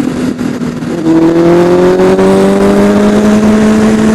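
Honda CBR1000RR Fireblade's inline-four engine accelerating under way: a quieter first second, then a pitch that rises slowly and steadily from about a second in, with wind noise over it.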